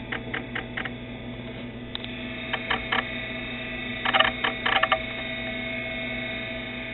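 A steady electrical hum with irregular sharp clicks and ticks, some coming in quick little bunches.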